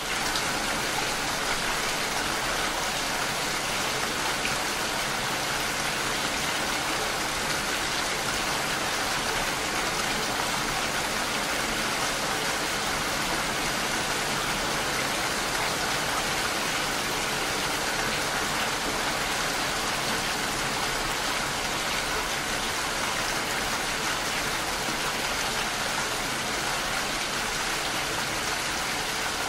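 Steady rain falling, an even, unbroken hiss that fades in quickly at the very start.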